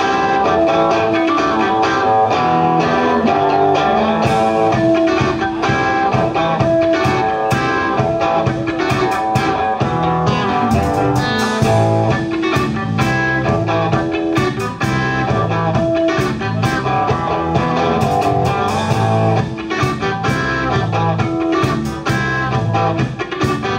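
Live band music led by electric guitar, with bass and drums, playing an instrumental blues-rock passage.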